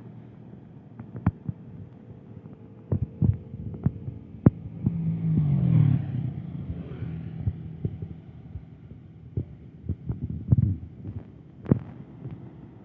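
Heavy diesel truck engine running with a low, steady throb, swelling louder for about a second around the middle, with many sharp knocks and taps over it.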